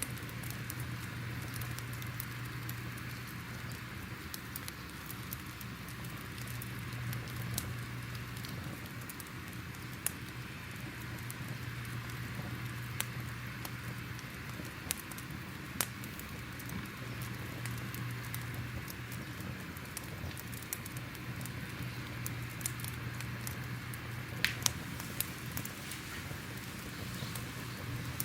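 Crackling fire: irregular small pops and crackles over a steady low rumble, with a few louder pops near the end.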